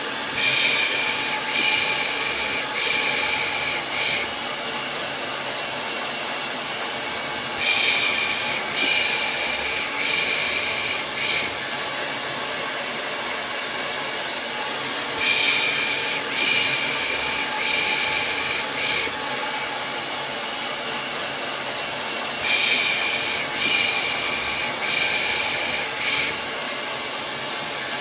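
Hair dryer running steadily as white noise. Over it, a person makes the soothing 'pış pış' shush used to calm babies: groups of four short shushes about a second apart, with a group every seven or eight seconds.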